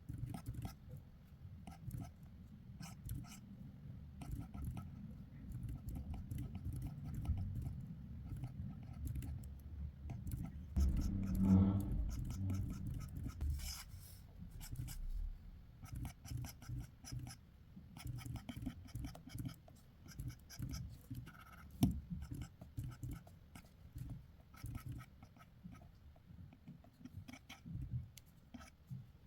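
Sketching strokes on paper: a steady run of short scratching and rubbing strokes as a drawing is worked up. A brief low pitched sound rises over the strokes a little before halfway through and is the loudest moment.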